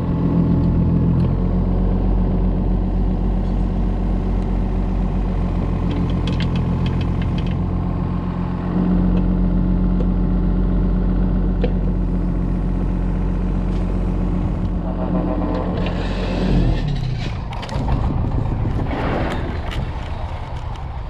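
Diesel engine running steadily under load, its pitch stepping up about nine seconds in and then falling away about sixteen seconds in, followed by scattered clatter and knocks.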